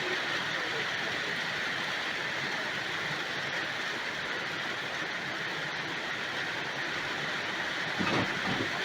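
Heavy summer downpour: a steady, dense hiss of rain. A brief low rumble rises under it near the end.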